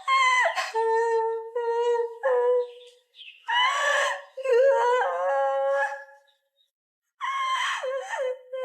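A high voice holding long, wavering notes in separate phrases, with about a second of silence near two-thirds of the way through.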